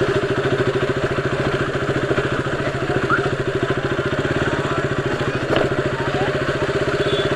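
Motorcycle engine running steadily under way, a rapid, even stream of firing pulses with no break.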